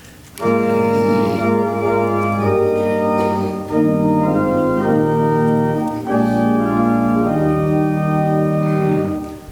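Church organ playing sustained chords. It starts about half a second in, moves to a new chord every second or two, and pauses briefly near the end.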